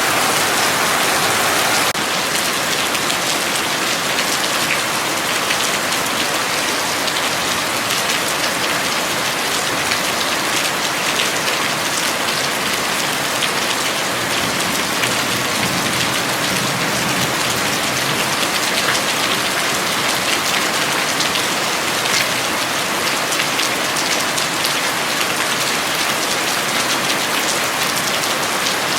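Heavy rain falling steadily, a dense hiss of drops on surfaces; the sound shifts abruptly about two seconds in, then runs on evenly.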